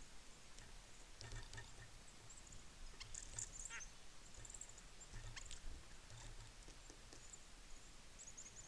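Small birds at a winter feeder giving short, high chirps and twitters scattered throughout, faint, with a few soft low thumps.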